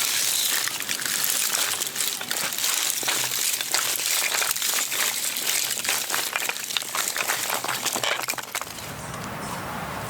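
Dense, irregular crackling and crinkling that stops about eight and a half seconds in, giving way to a low steady hum.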